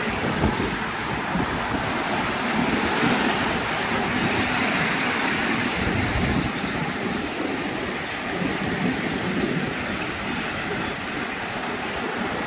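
Miniature railway train running along the track: a steady rumble with irregular wheel-on-rail clatter.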